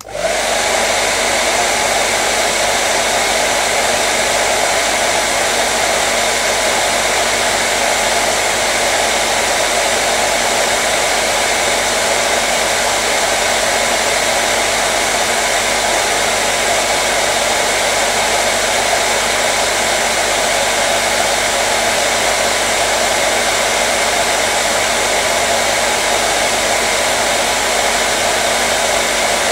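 Hair dryer running continuously: a steady, unchanging whoosh of fan and airflow with a faint motor hum, fading in at the very start.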